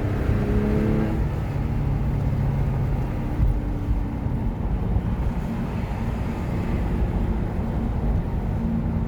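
Porsche 997's flat-six engine running while the car is driven, with a steady rumble of road noise; the engine note rises slightly in the first second, then settles under the road noise.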